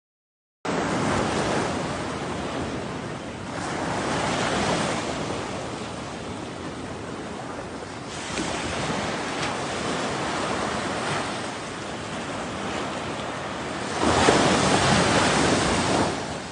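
Ocean waves washing ashore, a steady rush of surf that swells and falls several times, with the biggest surge near the end.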